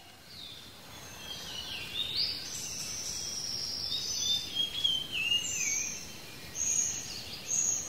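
Songbirds chirping and whistling: several overlapping high whistled phrases, some stepping down in pitch, with short whistles near the end, over a faint steady hiss.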